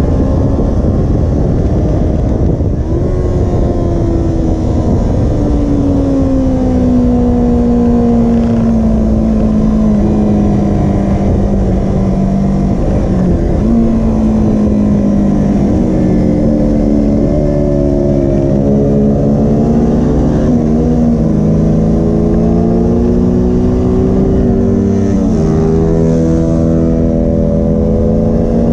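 Kawasaki Ninja 250R's parallel-twin engine heard from on board at track speed in third gear, its pitch sagging slowly through a corner and then climbing again as the throttle is rolled back on, with a few brief dips. A constant heavy rush of wind noise runs under it.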